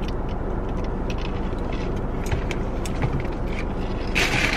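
Steady low hum of an idling car heard from inside, with scattered small clicks and a louder papery rustle starting about four seconds in.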